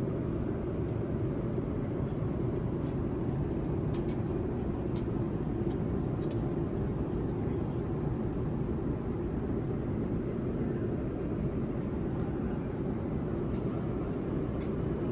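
Steady cabin noise inside a Boeing 787-9 airliner in flight: an even low rumble of engines and airflow, with a few faint clicks about four to six seconds in.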